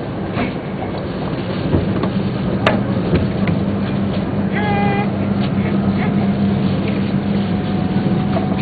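Tōhoku Shinkansen Hayate train running at speed, heard from inside the passenger car: a steady low hum from the traction motors under running noise, with scattered light clicks. A brief high-pitched tone sounds about five seconds in.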